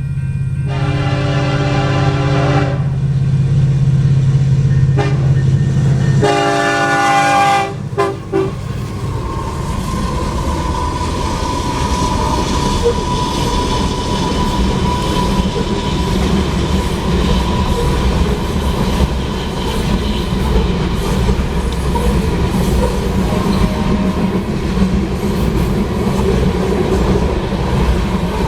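Union Pacific freight train led by an EMD SD70AH diesel locomotive sounding its horn for a grade crossing: two long chord blasts and a short toot over the running diesel engine. The loaded potash cars then roll past, with a steady rumble and clatter and a high ringing tone from the wheels.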